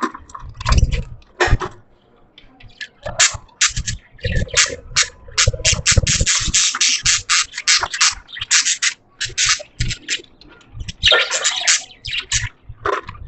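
Pet budgies chattering in quick runs of short, clicky chirps. There is a brief lull about two seconds in, then a dense stretch of chatter.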